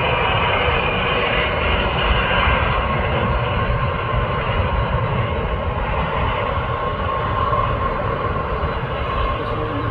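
Boeing 747 jet engines running, a loud steady noise with a faint steady tone in it, easing off slightly toward the end.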